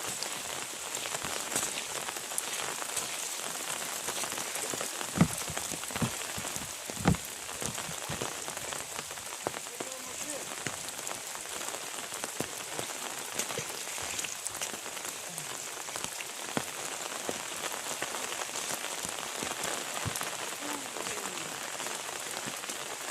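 Heavy rain pouring down, a steady hiss, with two sharp knocks about five and seven seconds in.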